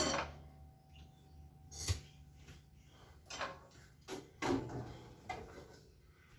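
A sharp hit at the start, then five or six faint scattered knocks and clicks, irregularly spaced.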